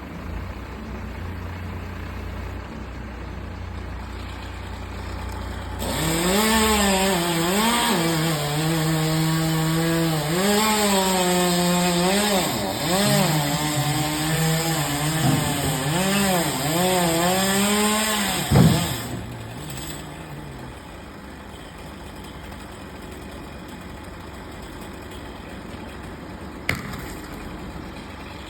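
Chainsaw idling, then run at high revs for about twelve seconds, its pitch repeatedly sagging and recovering under the load of cutting wood. It drops back with a sharp loud knock and then runs low.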